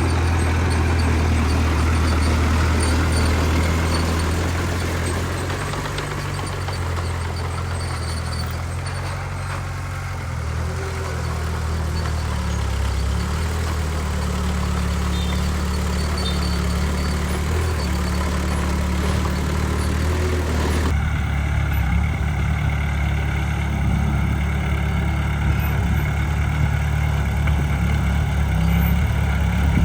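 Heavy diesel engine of earthmoving machinery, a bulldozer or dump truck, running steadily with a deep low drone. About three quarters of the way through, the higher noise above it drops out abruptly while the engine note continues.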